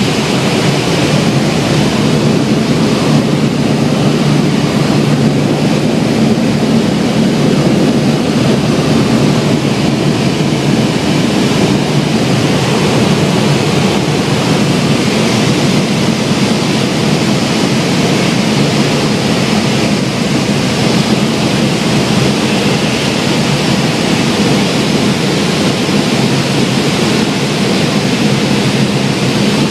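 Cessna 172's piston engine and propeller droning steadily in flight, over a constant rush of air noise.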